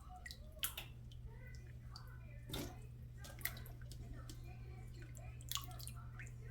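Faint kitchen sounds of food being handled in water: small splashes and drips and a few short sharp knocks, over a steady low hum.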